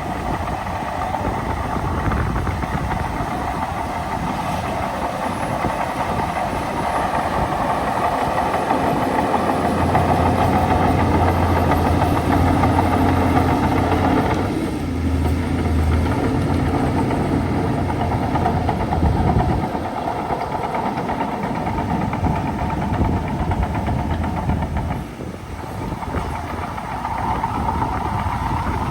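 Heavy diesel engine of a bulldozer running continuously. Its deep drone grows louder through the middle, shifts about halfway, and dips briefly near the end.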